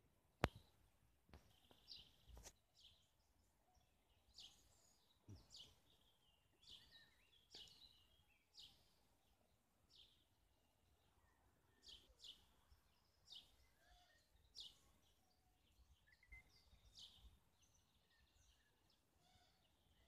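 Faint birdsong: short, high chirps sweeping downward, repeated every second or so. A sharp click about half a second in is the loudest sound, followed by a few softer knocks over the next two seconds.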